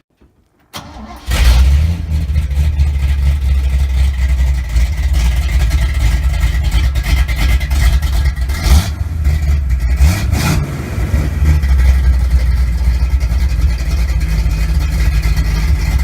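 1967 Chevy C20 pickup's V8 running through new MagnaFlow chamber mufflers: the engine note comes in loud about a second in and carries on as a deep, steady exhaust sound.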